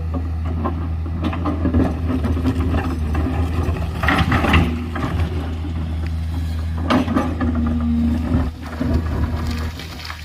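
Excavator's diesel engine running steadily under load, with a brief hydraulic whine, and bursts of scraping and clanking as the bucket cuts into the hillside, the loudest about four and seven seconds in.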